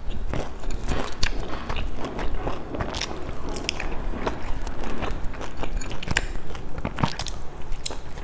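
Close-miked chewing of soft dumplings: wet mouth sounds with a dense, irregular run of small clicks and smacks.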